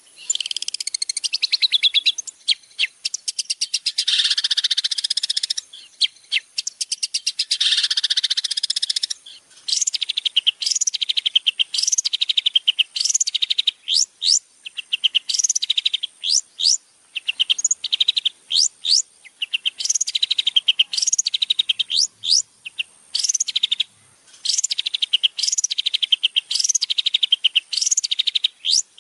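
Long-tailed shrike (cendet) singing. It starts with about nine seconds of dense, rapid chattering, then gives short, fast trilling phrases repeated about once a second or so.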